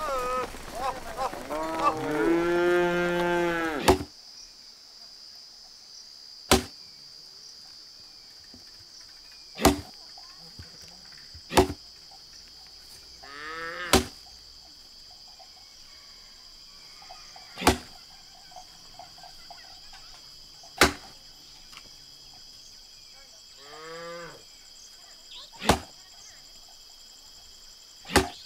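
Cattle lowing loudly for the first four seconds, then, after a cut, sharp single blows of an axe chopping a dry log, about eight strikes two to four seconds apart, over a steady chirring of crickets. A cow lows twice more between the blows.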